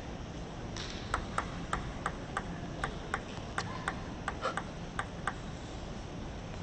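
Table tennis ball clicking against the rackets and table in a rally, about three light, sharp clicks a second for some four seconds.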